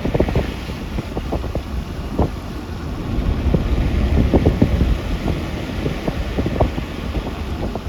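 Wind buffeting the microphone, a steady low rumble, with many short, irregular knocks scattered through it.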